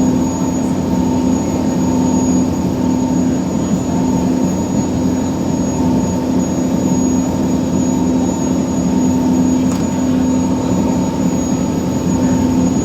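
A ferry's Scania diesel engine running steadily at constant speed: a loud, even drone with a strong low hum and a high whine on top.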